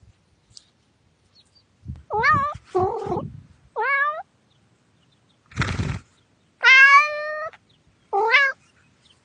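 Domestic cat meowing repeatedly, about five meows, the longest one a little past the middle. There is a short burst of noise between the meows.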